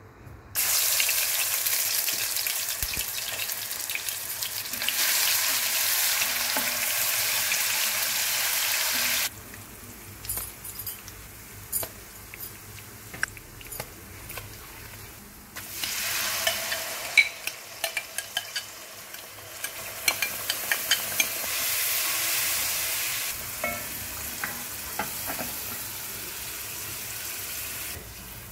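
Paste dropped into hot oil in a cooking pot, sizzling loudly from just after the start and dropping off about nine seconds in. A quieter stretch follows with clicks and scrapes of a spoon stirring against the pot. A second loud sizzle comes as ground spices go into the oil, with more clicks, before it settles to a lower steady sizzle.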